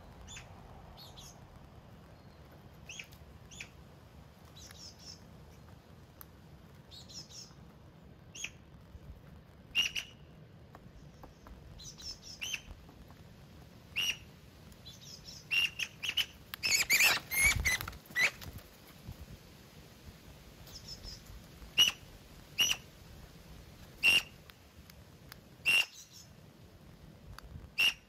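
Birds at a feeder: short, sharp sounds every second or two, thickening into a dense flurry a little past the middle.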